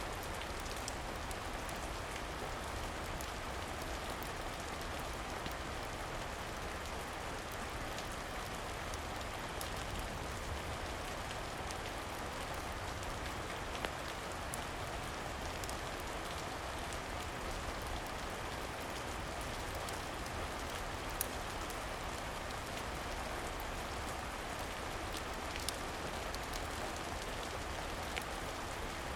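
Steady rain falling, an even hiss with scattered sharp little ticks, a few standing out more loudly about a third of the way in, past the middle and near the end.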